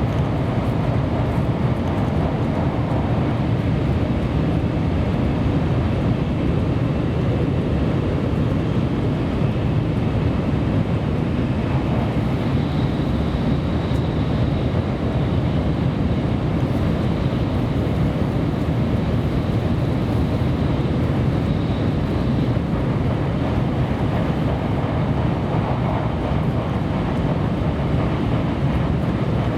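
Kyushu Shinkansen train heard from inside the passenger car while running at speed: a steady low rumble and rush of wheels on rail and air along the body. A faint high whine comes in for several seconds midway.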